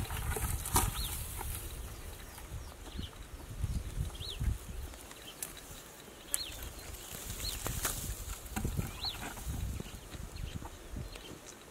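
Short, high bird chirps every second or two, over rustling of dry grass and footsteps on dry ground.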